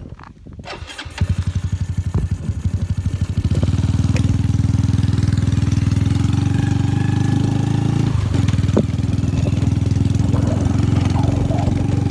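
A freshly assembled motorcycle engine starting on its first run: it catches about a second in with a rapid putter, then settles into a steady, faster idle about three and a half seconds in.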